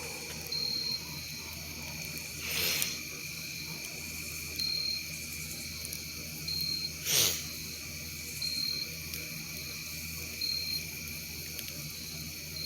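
Insects chirping: a steady high drone with a short high chirp repeating about every two seconds. Three louder brief whooshes cut through, about 2.5 s, 7 s and near the end.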